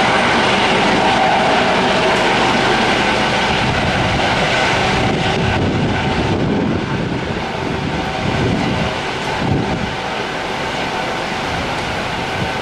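Coast Guard MH-65 Dolphin helicopter's rotor and turbine noise, steady and gradually growing fainter.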